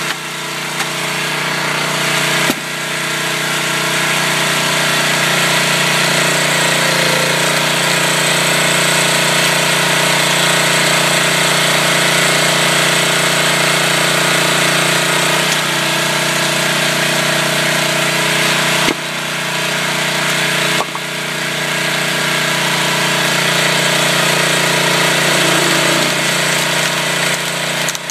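Small petrol engine of a PHGS13 engine-driven hydraulic log splitter running steadily while splitting firewood. Its level drops abruptly and builds back up a few times.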